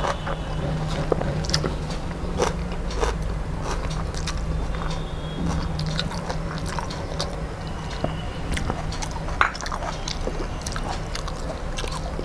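Close-miked eating sounds of a person eating rice and curry by hand: chewing and wet mouth sounds, with the squish of fingers mixing rice on a steel plate and many small scattered clicks. A steady low hum runs underneath.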